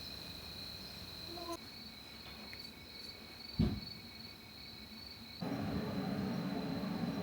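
Crickets chirring in a steady, high, continuous trill. A single thump comes a little past halfway, and about two thirds through a louder rushing noise sets in beneath the insects.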